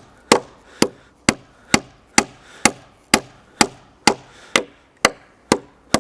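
Hammer driving a nail into a wooden fence board with steady blows, about two a second. The nail was pretty bent but still drove in.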